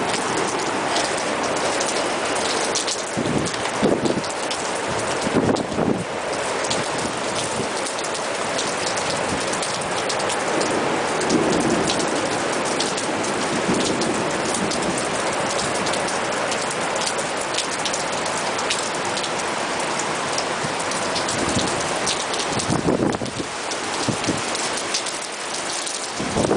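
Heavy thunderstorm rain pouring down steadily, with a few louder knocks and gusts around the start and again near the end.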